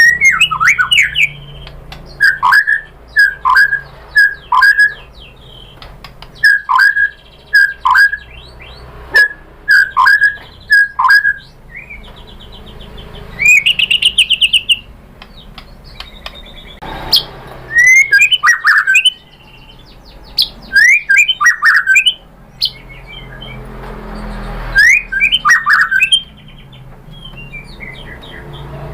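White-rumped shama singing a loud, varied song in separate phrases: runs of three to five quick down-slurred whistles, a high trill about halfway through, then rising and falling sweeping notes.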